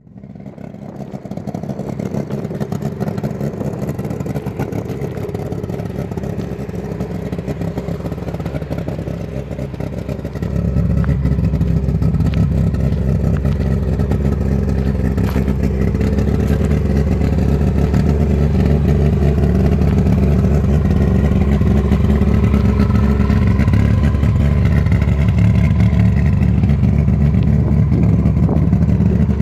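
A 1968 Saab 95's two-stroke engine running steadily through a loud exhaust that has only one muffler. The sound fades in at the start and gets noticeably louder about ten seconds in, then holds steady.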